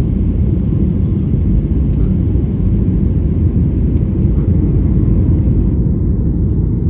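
Airliner cabin noise: a steady, loud, low rumble of the engines and rushing air, heard from inside the plane.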